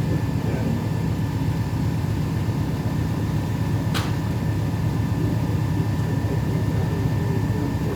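Cruise boat's motor running steadily, a constant low drone heard on board, with one brief click about halfway through.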